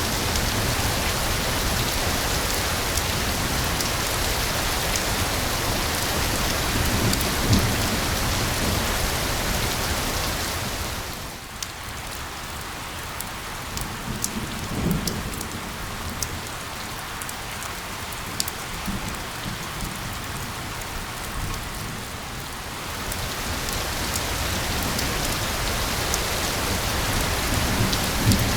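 Steady, dense rainfall hiss. About a third of the way in it eases to a lighter patter with separate drops ticking, then builds back to the fuller hiss near the end.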